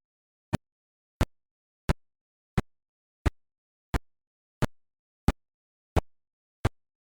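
A steady series of short, sharp clicks, about three every two seconds, with silence between them.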